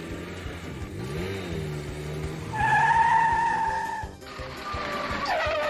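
Cartoon vehicle sound effects over background music: gliding engine-like tones, then a held high squealing tone for about a second and a half near the middle, the loudest part.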